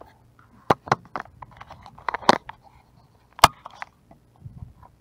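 Handling noise on a small camera: a string of sharp knocks and clicks as fingers grip and fiddle with it, with faint rubbing in between and a few dull thuds near the end.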